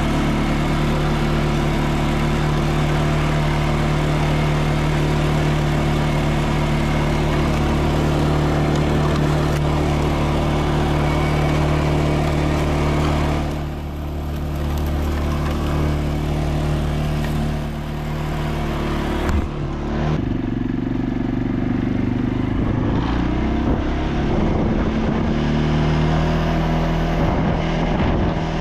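ATV engine running under way, holding a steady pitch for the first two-thirds, with brief dips in loudness. After about twenty seconds its pitch wavers up and down as the throttle is varied.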